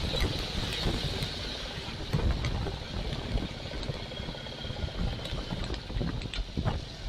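Royal Enfield Classic 350's single-cylinder engine running while riding, under wind rushing over the microphone and the hiss of tyres on a wet road, with scattered sharp ticks.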